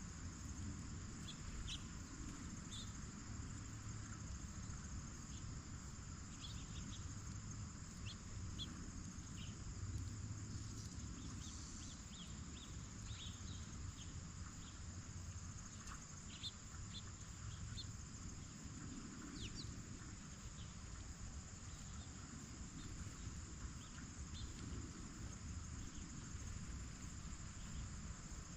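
Steady chorus of crickets and other insects, with scattered short high chirps throughout and a low rumble underneath.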